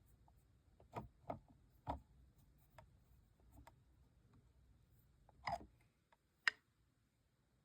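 Faint clicks and taps of small plastic toy-aquarium parts being handled: three about a second in, a few weaker ones, then a short scrape and one sharp click past the middle.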